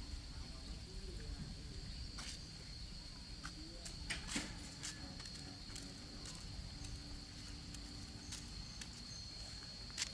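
A steady high-pitched insect drone over a low rumble, with scattered short clicks and ticks.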